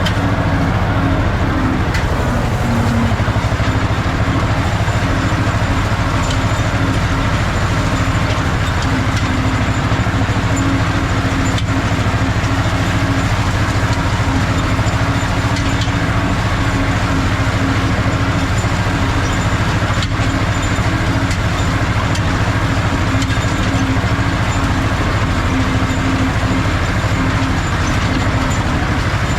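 Ursus C-330's two-cylinder diesel engine running steadily at working speed while the tractor rakes hay.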